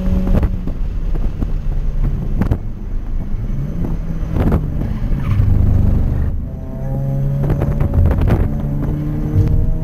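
Toyota 86's flat-four engine at track speed, heard from inside the cabin with road and wind noise. The pitch dips around the middle and climbs steadily again over the last few seconds under acceleration. Several sharp knocks are scattered through it.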